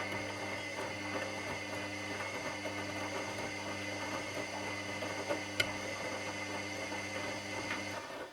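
Washing machine drum motor running with a steady hum and light rattling as the drum turns, then cutting off suddenly near the end, with a click just after.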